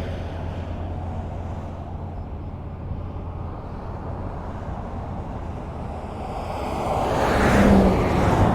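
Highway traffic: a steady low rumble of cars on the road, with one vehicle passing close by, swelling to its loudest about eight seconds in and fading away.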